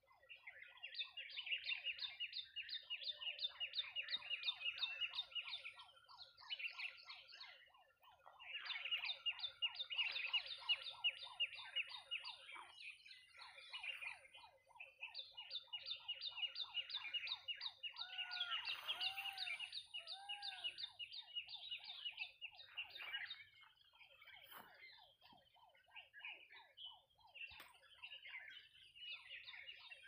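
Birds calling in the trees: long runs of rapid, evenly repeated chattering notes, about eight a second, broken by a couple of short pauses, with a few lower, curving calls near the middle.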